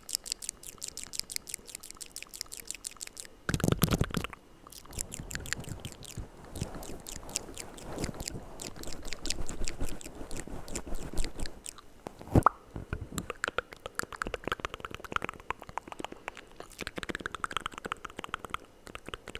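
Close-miked ASMR mouth sounds: rapid wet clicks and smacks of the lips and tongue, with a louder burst about four seconds in and a single sharp pop about twelve seconds in.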